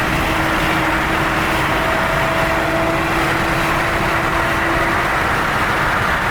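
A car driving at a steady speed: steady road and wind noise with an even engine drone and no revving.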